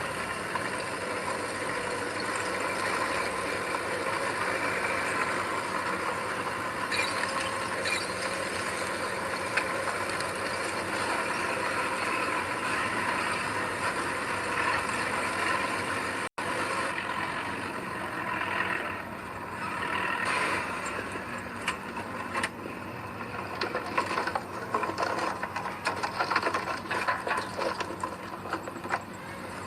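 Heavy diesel earthmoving machinery running steadily. After an abrupt break about halfway through, the sound becomes irregular, with rapid clanking and rattling.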